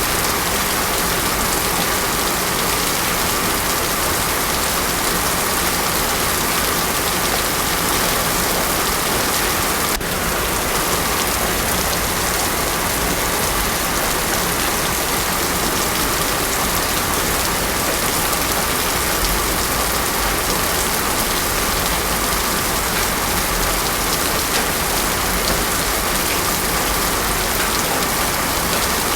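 Heavy rain falling steadily on a paved road, an even unbroken hiss of water.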